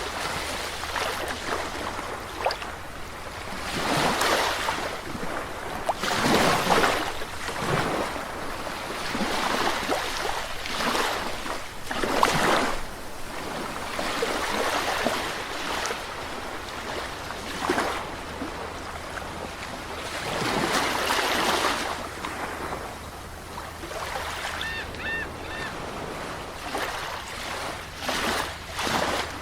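Sea waves washing onto a shore, each wave swelling and falling away every few seconds. Near the end, a faint, brief high three-note chirp.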